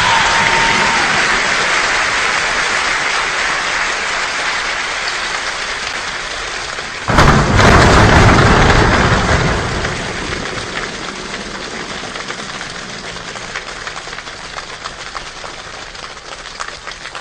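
Steady rain falling, its hiss slowly fading, with a sudden loud crash of thunder about seven seconds in that rumbles on for two or three seconds before dying away.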